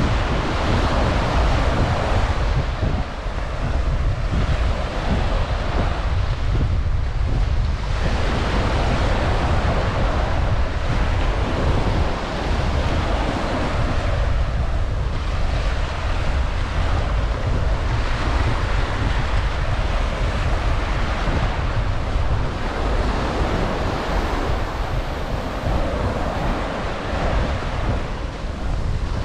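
Ocean waves breaking and washing up a sandy beach, swelling and easing every few seconds, under a steady low rumble of wind on the microphone.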